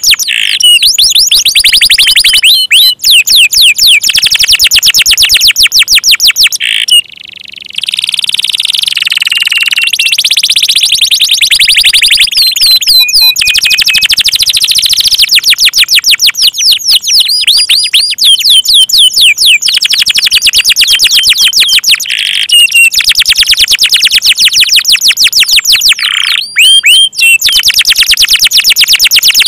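Domestic canary singing a loud, nearly unbroken song of rapid high trills and rolls, many notes a second, with short upward and downward whistled slides between them; the song dips briefly about seven seconds in.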